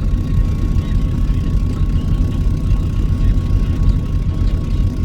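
Truck engine and road noise, a steady low rumble with a faint steady whine above it.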